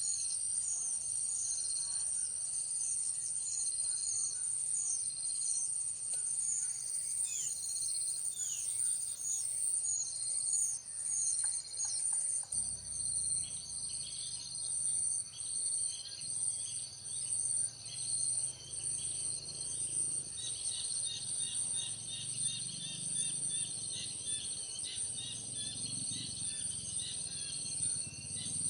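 A steady high-pitched insect drone, like crickets, with a run of short, repeated high chirps. About twelve seconds in, a low hum and faster chirping join it.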